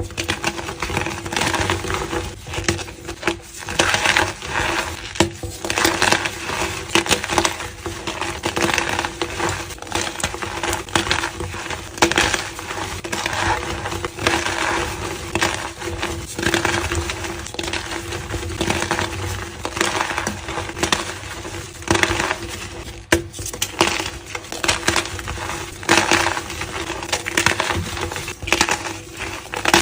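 Reformed gym chalk blocks being crushed and crumbled, a dense, irregular crunching and crackling that keeps going throughout.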